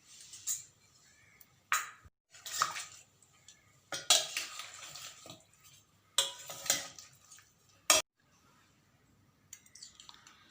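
Raw chicken pieces being mixed by hand with turmeric and salt in a bowl: wet squelching and sloshing in several irregular bursts, with a short sharp click near the end.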